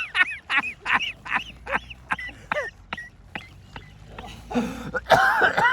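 Waterfowl honking: a run of short calls, about three a second, that fade away over a few seconds, with louder calling again near the end.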